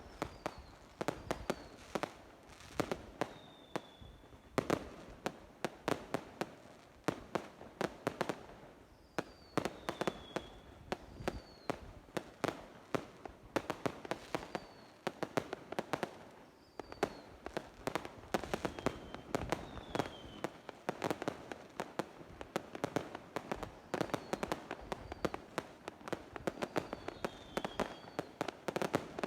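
Fireworks going off nonstop: a dense, uneven run of sharp bangs and pops, with short high whistles that dip in pitch now and then.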